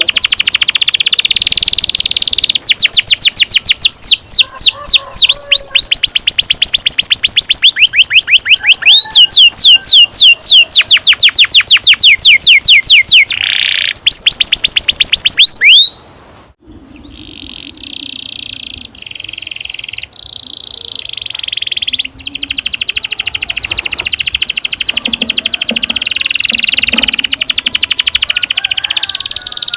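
Domestic canary singing long rolls: fast trills of repeated down-slurred notes, about ten a second. About halfway through the song breaks off briefly, then resumes softer and builds back to loud trilling.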